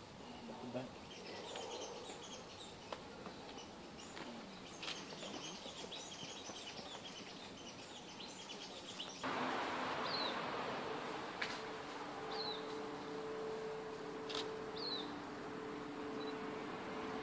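Small birds chirping over a steady background hiss. About nine seconds in, the hiss suddenly gets louder, with a low steady drone and a few short falling bird calls.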